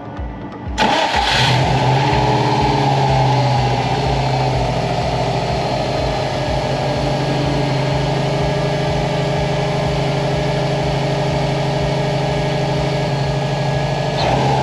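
2004 Subaru WRX's turbocharged flat-four engine starting on its first start after a timing belt tensioner replacement: it catches about a second in, its speed flares and slowly settles to a steady idle, and it revs briefly near the end. It runs smoothly without the knock that the owner blamed on the failed tensioner.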